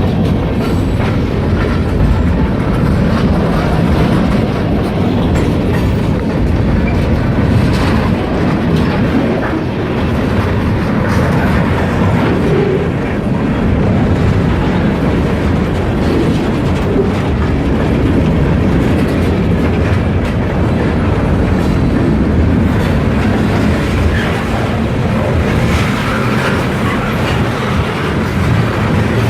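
Freight train rolling steadily past, its wheels clacking over the rail joints under a steady low rumble.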